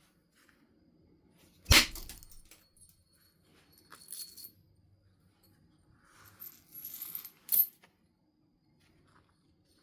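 Flintknapping: a sharp percussion strike on flint about two seconds in, with a bright ring, followed by softer clinks and rustling of stone and flakes, and a second sharp click near the end.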